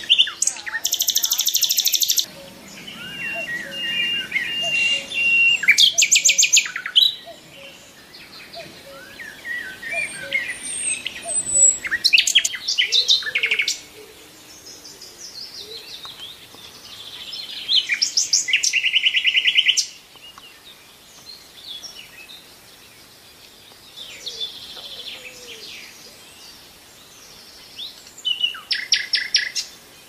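Forest birds singing. One bird gives a loud, fast trill five times, each burst lasting one to two seconds, while others chirp and whistle softly in between.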